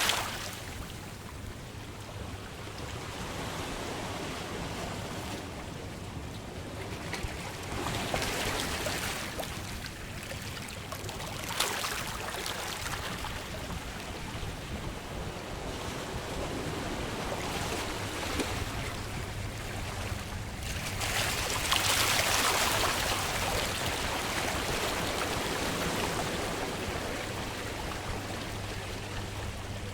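Ocean waves breaking and washing up the shore, rising in several surges with the loudest about two-thirds of the way through.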